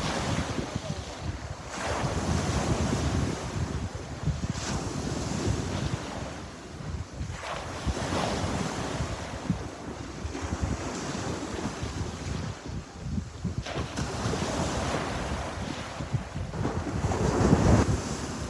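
Sea waves breaking and washing on the shore, the surf swelling and easing every few seconds, with the loudest surge near the end. Wind buffets the microphone, adding a choppy low rumble.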